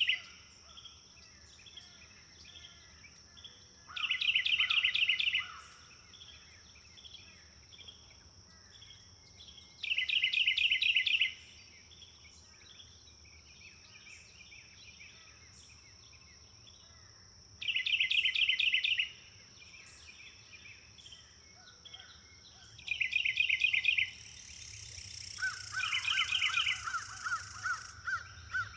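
Forest birdsong: a bird repeats a loud, rapid trilled phrase of just over a second about every six seconds, over a steady high thin whine. Near the end a second bird gives a quick series of evenly spaced notes.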